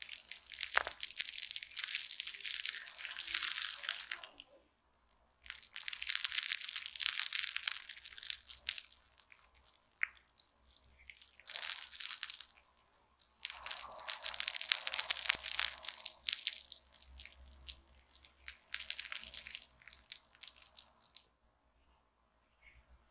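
Slime being squeezed and worked, crackling densely in several bouts of one to four seconds with short pauses between them and a longer pause near the end.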